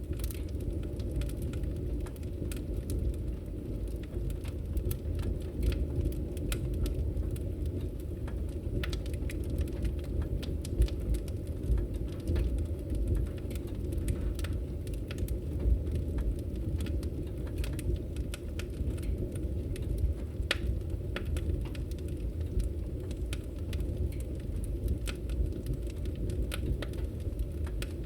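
Fire burning in a fireplace: a steady low rumble of flames with scattered crackles and pops throughout.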